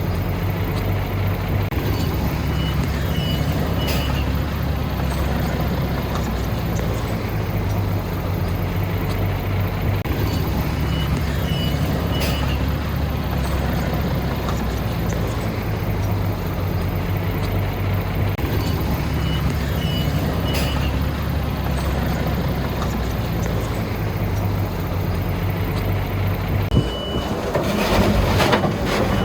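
Heavy diesel earthmoving machine running steadily, its reversing alarm sounding short high beeps in small groups about every eight seconds. Near the end the machine gets louder, with rattling and clanking.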